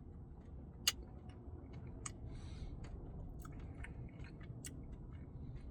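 Quiet, close-miked chewing of a Dairy Queen Cookie Dough Blizzard, with soft mouth clicks and smacks and one sharper click about a second in.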